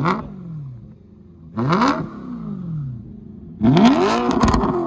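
2011 BMW M3's 4.0-litre V8 being revved through a Meisterschaft stainless axle-back exhaust with its valves open. There are three throttle blips, each dropping back toward idle: a sharp one at the start, another about a second and a half later, and a longer, louder one near the end.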